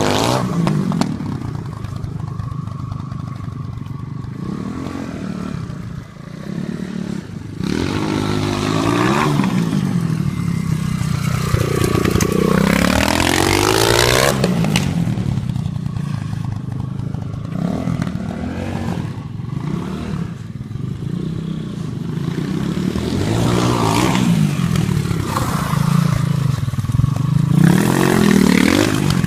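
Pit bike's small single-cylinder engine being ridden, its pitch rising and falling several times as the throttle is opened and closed, with a brief drop near 6 seconds in.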